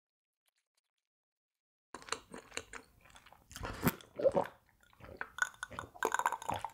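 A person chewing and biting food close to the microphone, with irregular clicks and wet mouth sounds. The sound starts about two seconds in, after dead silence.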